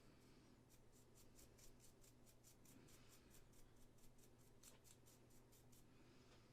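Faint quick rhythmic scratching strokes, about five or six a second, as a small tool works over a resin model. The strokes start about a second in and stop shortly before the end.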